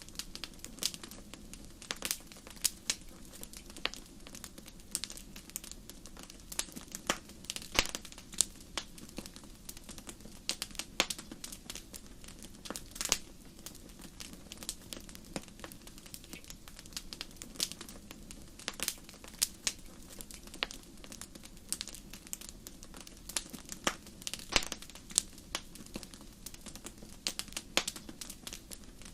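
Wood fire crackling in a fireplace: irregular sharp pops and snaps, a few each second with some much louder than others, over a faint steady low rush.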